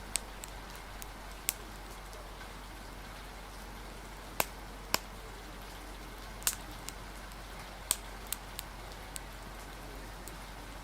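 Steady rain hiss with the sharp, irregular pops and snaps of a crackling wood fire, about ten in all, the loudest two close together near the middle.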